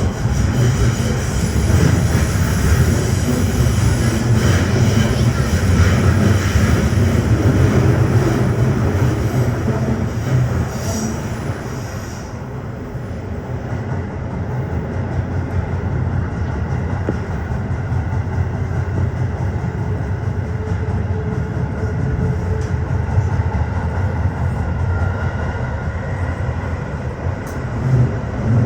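Tokyo Metro 15000 series train running through the tunnel between stations: a steady rumble of wheels on rail, heard from inside the car. The rumble eases a little about midway.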